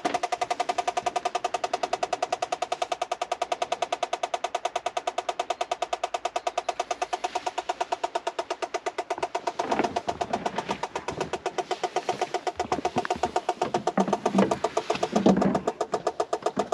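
Electronic gas leak detector beeping in a rapid, even pulse as it is held to the LPG pipe joints at a motorhome cooker, signalling traces of gas from a small leak. Knocks and handling noises join in over the second half.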